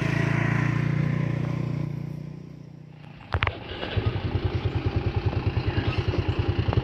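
Motorcycle engine running steadily, then fading away. A sharp clatter about three seconds in is followed by the engine starting and running with a fast, even chug.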